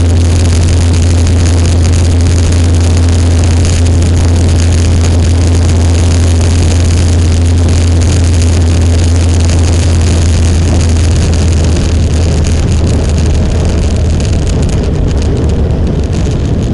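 Motorcycle riding at a steady speed: a loud, steady engine drone under rushing wind noise, which eases off somewhat about twelve seconds in.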